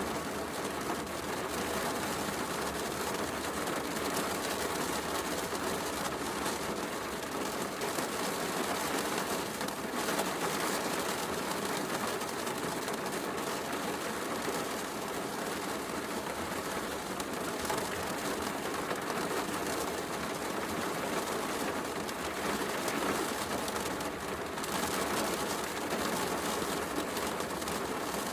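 Steady heavy rain mixed with a crackling wood fire in a fireplace.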